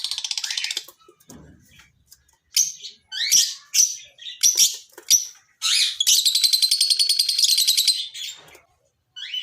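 Lovebirds calling: a rapid high trill that stops about a second in, then a string of short sharp chirps, then a long rapid high trill of about two and a half seconds.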